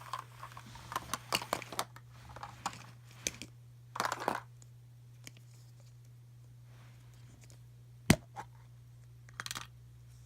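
Toy packaging being handled: plastic and wrapper crinkling with quick taps and clicks for the first few seconds, one sharp loud click about eight seconds in, and a short rustle near the end. A steady low electrical hum sits underneath.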